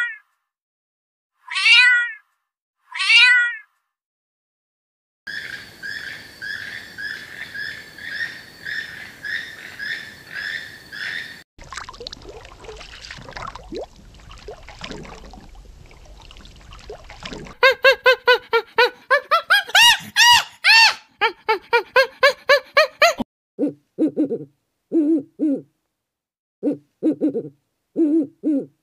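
A cat giving three short, falling meows, followed by a run of other animal sounds. First comes a stretch of fast, even chirping, then a noisy stretch with a low hum, then rapid repeated calls rising and falling in pitch. Near the end come short, lower calls in pairs.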